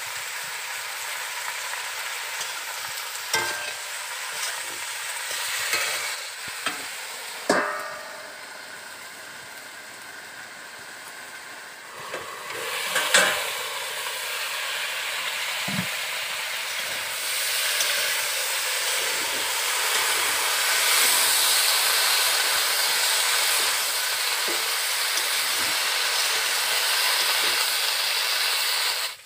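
Sliced flat beans and potatoes sizzling in hot oil in a metal kadai, with a metal spatula scraping and clinking in the pan. A few sharp metal clanks of spatula and lid on the pan. The sizzle drops for a few seconds near the middle, then comes back louder for the last third as the vegetables are stirred.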